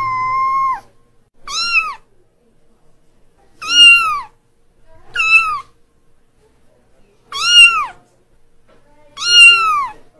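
Kitten meowing: about six high-pitched meows a second or two apart, each rising then falling in pitch, the first one long and drawn out.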